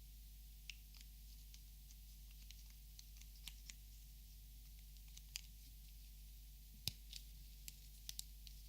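Faint, scattered clicks and taps of plastic Copic markers being handled. The sharpest comes about seven seconds in, followed by a quick pair near the end.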